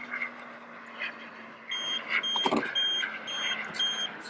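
A run of five short, high electronic beeps, about two a second, with a brief hiss about halfway through, as the model jet's systems are worked.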